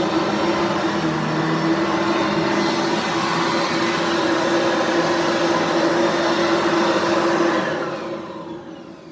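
Sanitaire SC688 upright vacuum cleaner running steadily. It is switched off about three-quarters of the way in, and the motor winds down with a falling pitch.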